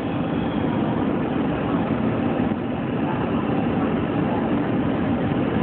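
Airliner cabin noise: a steady rush of jet engine and airflow noise heard from inside the passenger cabin during the landing.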